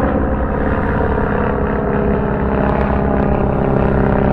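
Piston engine of a vintage warplane running steadily at a constant pitch.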